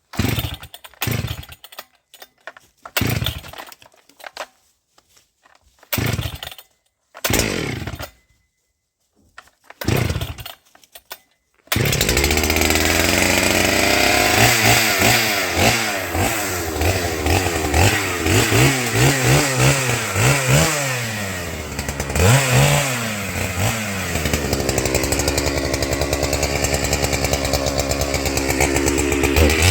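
Holzfforma 395XP two-stroke chainsaw being pull-started: several short pulls fire briefly and die away, then about twelve seconds in it catches and keeps running. It is revved up and down repeatedly, then held at a steadier speed near the end.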